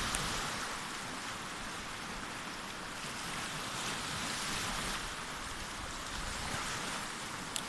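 Sea surf washing on the shore: a steady hiss that swells and eases slowly, with a brief click just after the start and another near the end.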